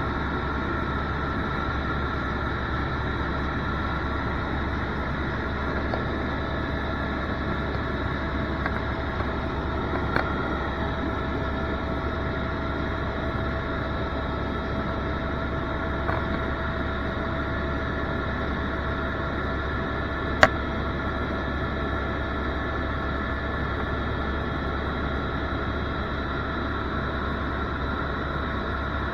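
Steady engine and rotor noise inside a helicopter cabin in flight, with a few constant tones over a low hum. A single sharp click comes about twenty seconds in.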